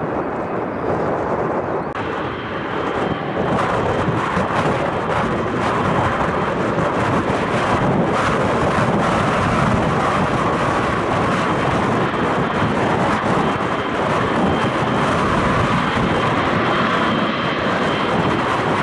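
Aircraft engines running loud and steady as a fixed-wing airplane moves near the runway. The noise swells about two seconds in, with a faint steady high whine on top.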